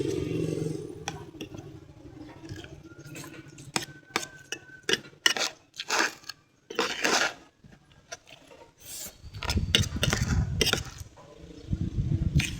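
Spoon and fork clinking and scraping on a plate during a meal, in scattered sharp clicks and short scrapes. A low rumble comes in about three-quarters of the way through and again near the end.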